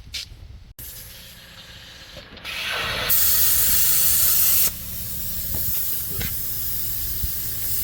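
Pneumatic needle scaler starts about two and a half seconds in, chipping rust scale off a steel truck frame. It is loudest for the next couple of seconds, then runs on somewhat quieter.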